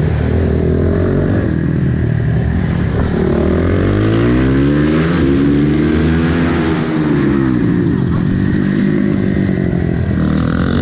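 Supermotard motorcycle engine racing, its pitch rising and falling repeatedly as it accelerates and brakes through the corners, with several engine notes overlapping in the middle.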